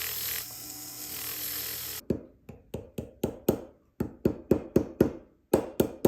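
A steady hiss, then a run of sharp hammer taps, about three a second, each with a short metallic ring, on the silver ring on a steel ring mandrel: the ring's shank being hammered back into round and to its original size after the cracks were soldered.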